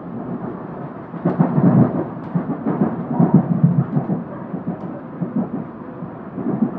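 Moving train rumbling, heard muffled from inside the carriage, with irregular louder surges.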